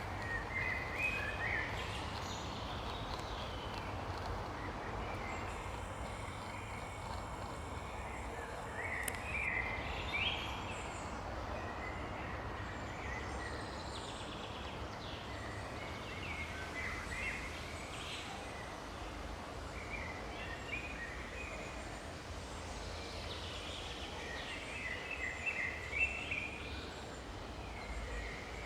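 Woodland birds singing in short chirping phrases every few seconds, over a steady background hiss.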